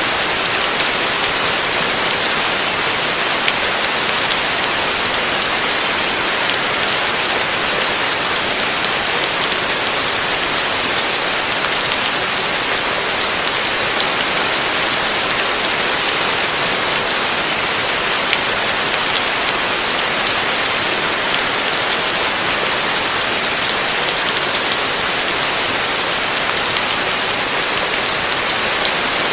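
Heavy rain falling steadily on a roof: a dense, even hiss with individual drops ticking through it.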